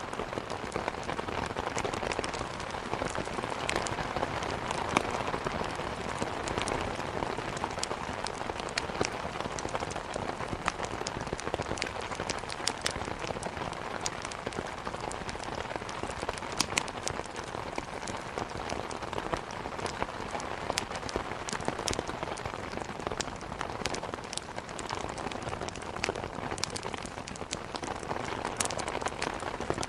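Steady rain hitting a window, mixed with a wood fire crackling, with sharp pops scattered throughout.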